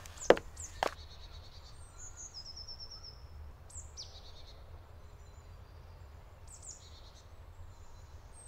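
Woodland songbirds calling: scattered short, high chirps and trills over a low, steady rumble. Two sharp knocks come within the first second.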